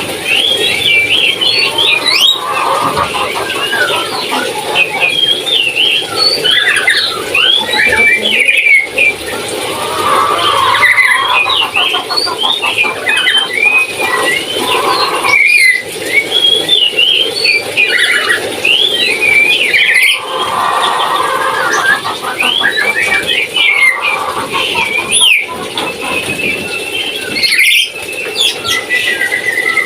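Papuan lory (nuri) parrot calling without pause: a rapid, dense chatter of short, high squeals and chirps that keeps on, with brief breaks every few seconds.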